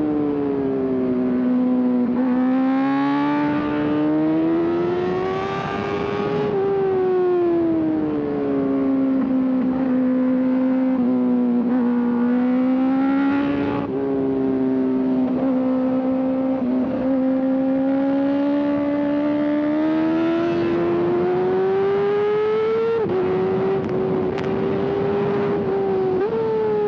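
Sport motorcycle engine running at high revs, heard from the rider's seat. Its pitch climbs and sags with the throttle, with a couple of sudden steps in pitch near the end, as from gear changes.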